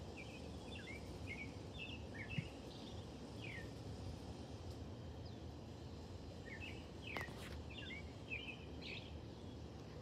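Small birds chirping in quick short notes, in two bouts of a few seconds each, over faint steady outdoor background noise.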